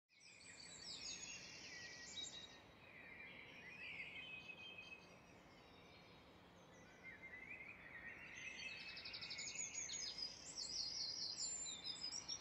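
Songbirds singing, a mix of quick chirps and rapid trills over a faint background hiss. The sound fades in from silence at the start, thins out in the middle and grows busier again toward the end.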